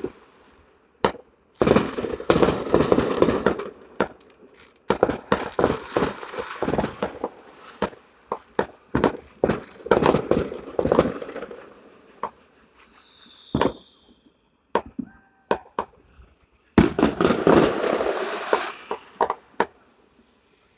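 Fireworks and firecrackers going off: several volleys of rapid crackling pops, each lasting two or three seconds, with single sharp bangs in between.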